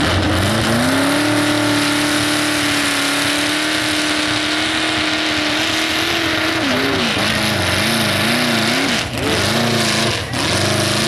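A pulling truck's engine at wide-open throttle: the revs climb in the first second and hold high and steady, then surge up and down over the last few seconds, with two brief dips in power near the end.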